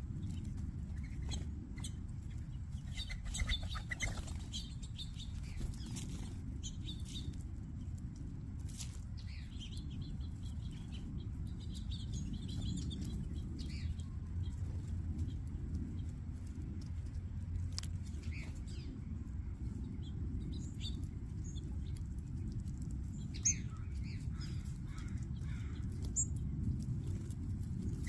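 A mixed flock of small seed-eating birds chirping at a feeder, with scattered short, high calls throughout over a steady low rumble.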